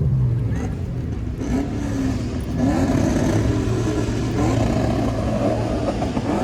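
Car engines running with a steady low rumble, with background chatter mixed in from about a second and a half in.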